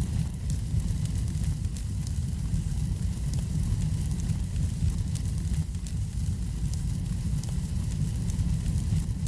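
Wood fire burning in a fireplace: a steady low rumble of flames with many small, scattered crackles and pops.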